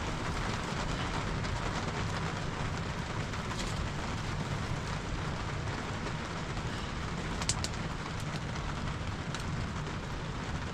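Steady rain falling, with a few light ticks of drops and one sharp click about seven and a half seconds in.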